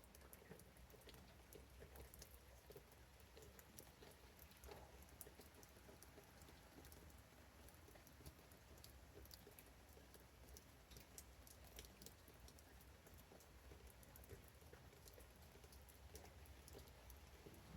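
Faint, scattered raindrops pattering, heard as irregular light ticks over a low hum.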